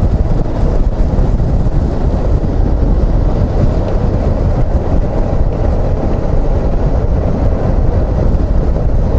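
Suzuki XF650 Freewind's single-cylinder four-stroke engine running steadily while the motorbike is ridden along, with wind buffeting the microphone.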